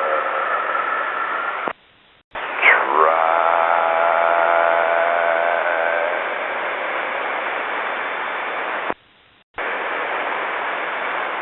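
Aircraft-band radio heard through a scanner: two wordless transmissions, each switched on and off sharply by the squelch. Each is a hiss carrying a whining tone that dips steeply in pitch, rises again and holds steady.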